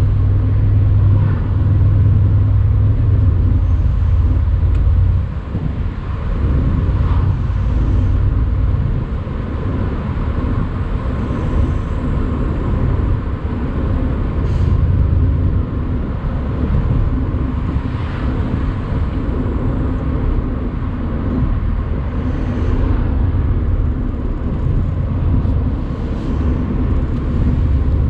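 Mercedes-AMG C63 cabriolet's 4.0-litre twin-turbo V8 running while driving, a deep steady drone with tyre and road noise. The engine is louder for the first five seconds, then eases off and runs on more evenly.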